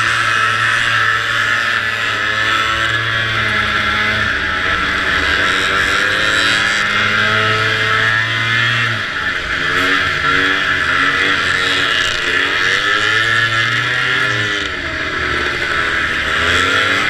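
Vintage snowmobile's two-stroke engine running at racing speed, its revs rising and falling again and again as the throttle is opened and eased, over a steady rushing hiss.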